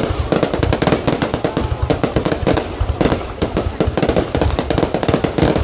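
Fireworks display: a dense, continuous barrage of rapid bangs and crackles, many per second, briefly thinning out around the middle.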